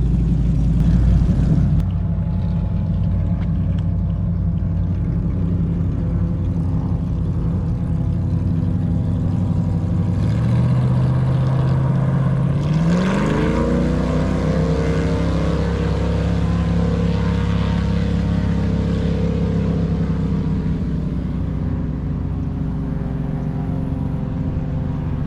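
Airboat engine and propeller running steadily, then revving up about halfway through and holding at a higher pitch as the boat gets under way.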